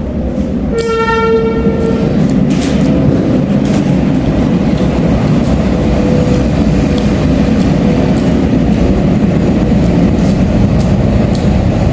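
A train passing close by: a single horn blast of about a second and a half near the start, then the steady loud noise of the train running past with repeated clicks of wheels over the rails.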